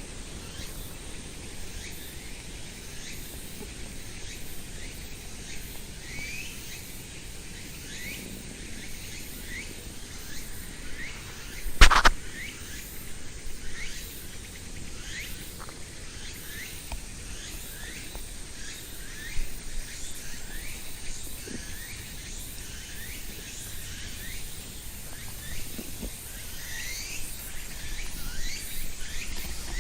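Outdoor park ambience: small birds chirping in short, repeated upward-sweeping notes over a steady high hiss, with one sharp knock about twelve seconds in.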